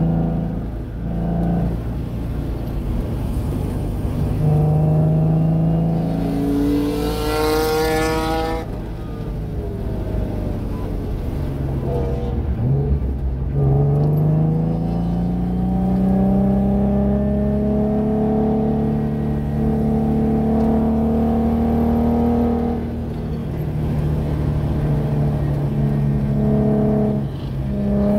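Nissan 370Z Nismo's 3.7-litre V6 heard from inside the cabin at track speed. The engine note climbs, drops away as the car slows and shifts down from fourth to third about halfway through, then climbs steadily again under acceleration.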